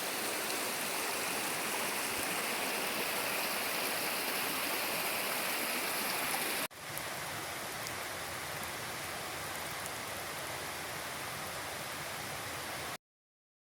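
Rushing water of a mountain stream, a steady hiss and splash. It breaks off at a cut about halfway through, carries on a little quieter, and stops dead shortly before the end.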